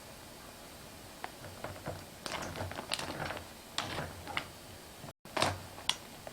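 Irregular light clicks, knocks and scrapes of hard shellfish shells being handled, bunched in a few quick runs. The sound drops out for a split second about five seconds in.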